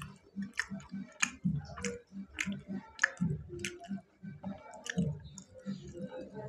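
A person chewing food close to a clip-on microphone: moist mouth clicks and soft jaw thuds, two or three a second.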